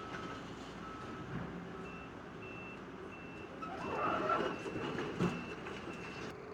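Heavy equipment backup alarms beeping steadily over the rumble of machinery. There are two alarms, one lower-pitched and one higher-pitched. A louder scraping clatter comes about four seconds in, and a sharp knock follows just after five.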